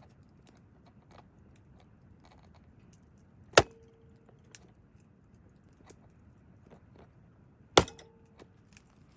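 Two sharp knocks about four seconds apart, each leaving a short ringing note, with faint light ticks and taps between.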